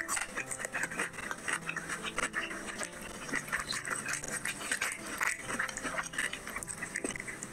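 Close-miked wet chewing and lip-smacking of a person eating spicy curry and flatbread by hand, a dense, irregular run of moist clicks and smacks.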